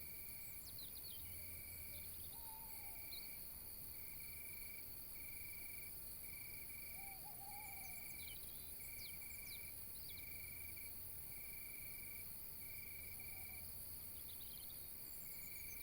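Nature ambience of insects: a trilling chirp repeats about once a second over a steady high insect hiss. Scattered short bird calls come and go over it.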